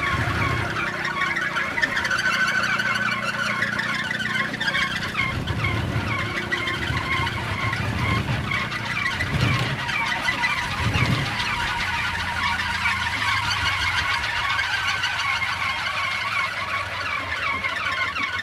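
A one-and-a-half-metre wooden kolecer (Sundanese wind propeller) spinning in the wind, its blades giving a steady, rapidly fluttering whir. Low rumbles of wind hit the microphone several times, near the start and again about five, nine and eleven seconds in.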